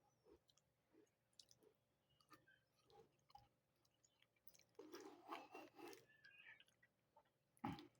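A person chewing food close to the microphone: faint, soft mouth clicks and smacks, a louder burst of chewing about five seconds in, and a sharp knock near the end.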